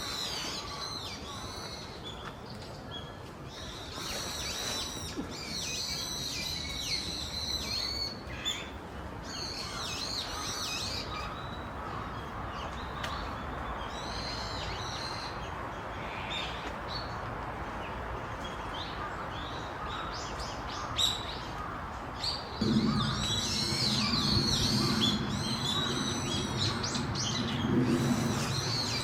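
Small birds chirping in repeated bursts of quick, high twittering notes, with pauses between the bursts. About three-quarters of the way in, a louder low-pitched sound with a steady pitch joins them.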